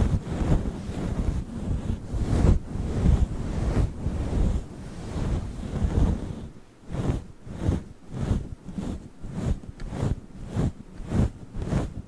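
A fluffy furry microphone cover rubbed and brushed over the microphone, giving a loud, low, wind-like rustle. About halfway through, the rubbing breaks into quick separate strokes, roughly two or three a second.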